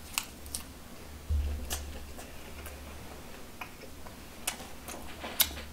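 A man chewing a large mouthful of food with his mouth closed: scattered wet clicks and smacks, roughly a second apart, over a low hum.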